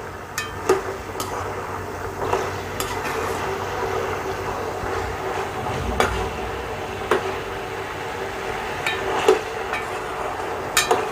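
Chicken pieces frying in hot oil, sizzling steadily, with a spatula knocking and scraping against the pan several times as the pieces are stirred.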